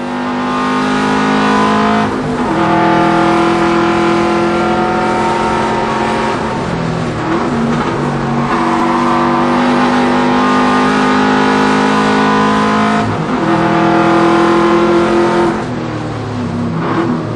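Subaru WRX's turbocharged flat-four engine driven hard at high revs. It is broken several times by gear changes where the pitch drops and resets, and the revs change more quickly near the end, as in heel-and-toe downshifts.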